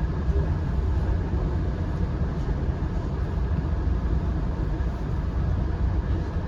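Steady low rumble of a passenger train running along the track, heard from inside the coach.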